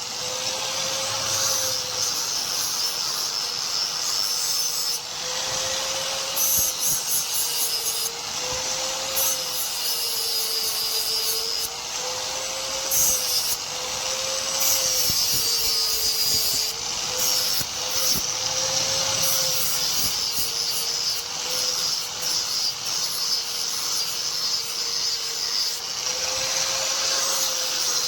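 An electric power tool's motor running continuously, its pitch wavering slightly up and down as it works the metal or wood, over a steady abrasive hiss.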